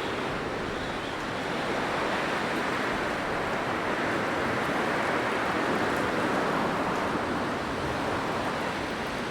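Blizzard wind blowing steadily, a continuous rushing noise that swells a little in the middle and eases toward the end.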